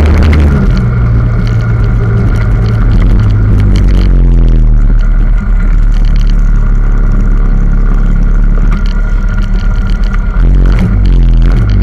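Minibike engines running close to the microphone: the camera bike's small single-cylinder engine, with its pitch dropping and settling to idle about four seconds in, then changing again near the end, among other minibikes idling on the starting grid.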